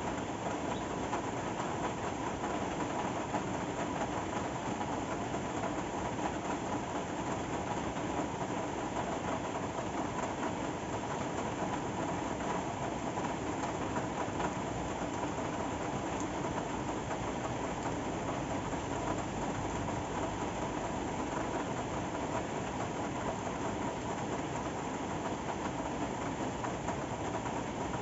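Steady rain falling, an even unbroken hiss with no change throughout.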